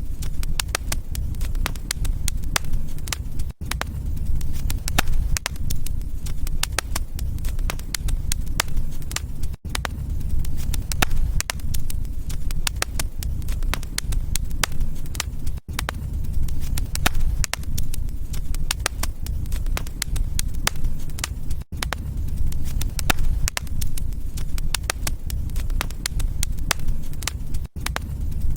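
Wood fire in a fireplace crackling, with frequent sharp pops and snaps over a steady low rumble of the flames. The sound drops out for an instant about every six seconds.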